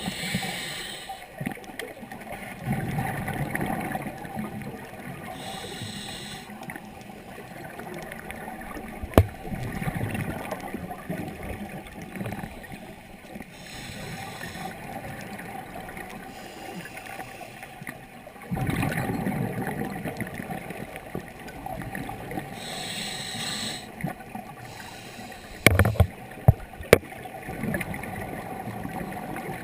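Scuba diver breathing through a regulator underwater: four short hissing inhales, each followed by a longer low burble of exhaled bubbles. A few sharp knocks sound once in the middle and three times near the end.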